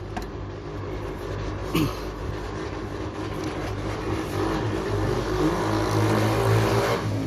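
A steady motor-vehicle engine hum that grows louder in the second half, with a single sharp knock about two seconds in.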